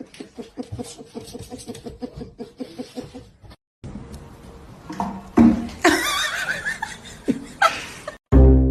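Laughter in quick repeated bursts, then, after a short break, louder high wavering cries; music starts right at the end.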